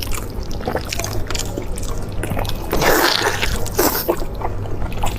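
Close-up wet eating sounds: many short wet clicks from chewing and mouth noises, with a louder wet slurp-like stretch about three seconds in.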